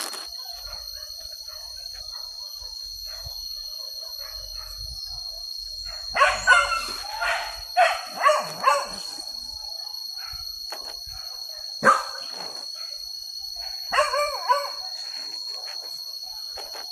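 Hunting dogs barking and yelping in bursts: a run of about six barks, a single sharp bark later, then three more near the end, over a steady high-pitched buzz.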